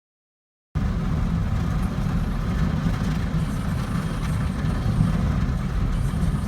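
Automatic car wash heard from inside the car: a steady low rumble with a hiss over it, starting abruptly under a second in.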